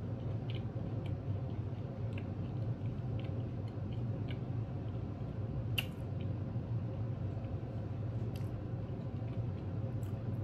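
A person chewing a breaded chicken nugget with small wet mouth clicks, one sharper click about six seconds in, over a steady low hum.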